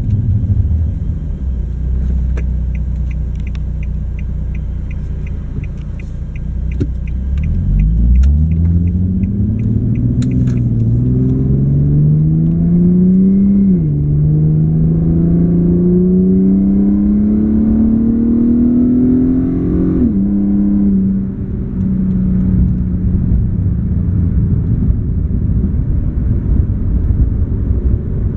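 Infiniti G37 sedan's V6 through a Topspeed Y-back exhaust with Berk high-flow cats, heard inside the cabin with the windows up. It starts with a low, steady cruising rumble. About seven seconds in, the engine revs up under acceleration and shifts up twice, about six seconds apart, then settles into a steady cruising drone. A quick, even ticking runs through the first ten seconds.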